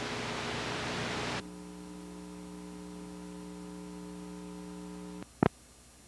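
Noise from the end of an old analogue tape transfer: a hiss for about a second and a half, then a steady electrical hum, and one sharp click near the end.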